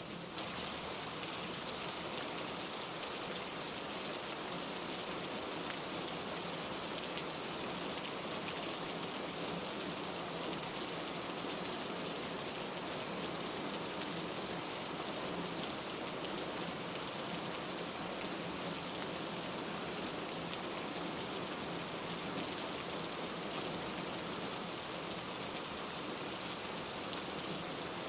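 Steady rain falling: an even hiss flecked with many tiny drop ticks, unchanging throughout.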